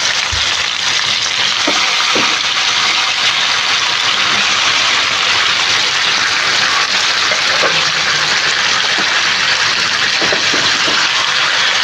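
Raw duck pieces sizzling in hot oil in a non-stick wok, a loud, steady hiss.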